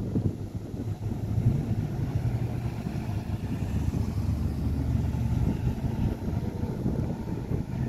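Ford Falcon sedans driving slowly past one after another, their engines running with a steady low note that is strongest in the middle as the second car passes close.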